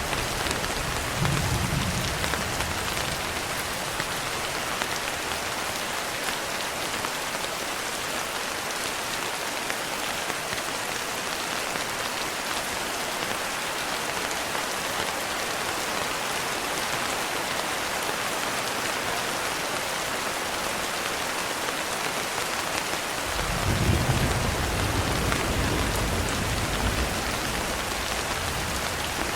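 Steady rain falling on a window. A low thunder rumble comes briefly about a second in, and a longer, louder rumble rolls in near the end.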